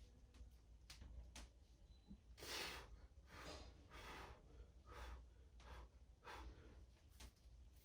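Faint, hard breathing of a man straining through a set of triceps extensions: a string of short, forceful exhales, roughly one or two a second, from about two and a half seconds in. A few light clicks come before them.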